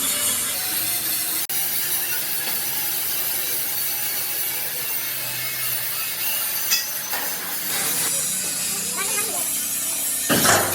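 Steady workshop noise from metal fabrication, a continuous rasping hiss, with a sharp tick about two-thirds of the way through and a louder burst near the end.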